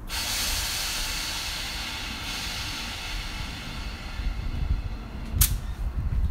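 Electric multiple unit train at a platform: a sudden loud air hiss that tails off over a few seconds, then a low rumble as the train starts to move off, with one sharp clunk near the end.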